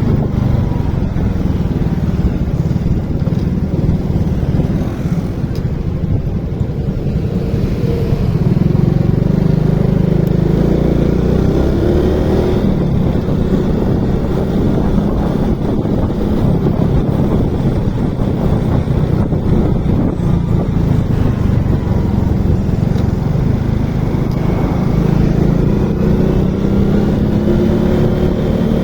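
Motorcycle engine running while riding, its note rising and falling as the revs change, over a steady low rush.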